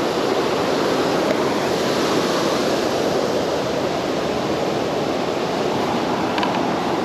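River water flowing steadily, an even, unbroken hiss of moving current.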